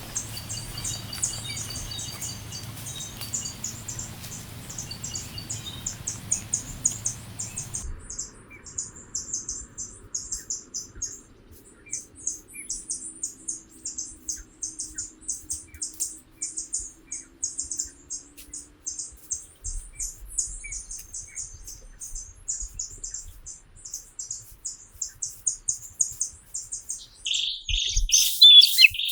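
Small birds chirping rapidly and continuously in a high pitch, with a louder, lower burst of calls near the end.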